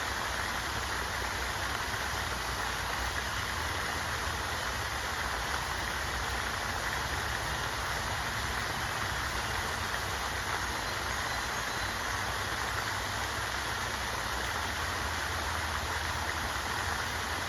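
Steady rushing water: an even, unbroken hiss with a low rumble underneath.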